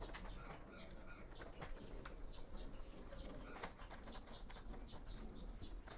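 Faint birds chirping, with short high calls repeating a few times a second, and a few light clicks as the air conditioner's wiring is handled.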